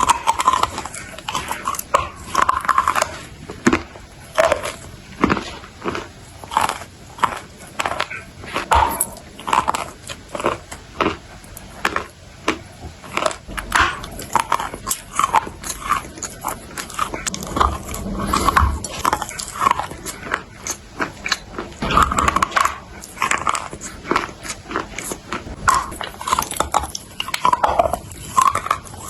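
Close-up crunching and chewing of clay: sharp, irregular crunches several times a second, with wet mouth sounds between bites.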